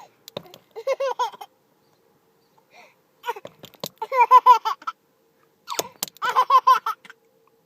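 A baby laughing in three bouts of quick, high-pitched, pulsed giggles. Short clicking noises come just before the bouts.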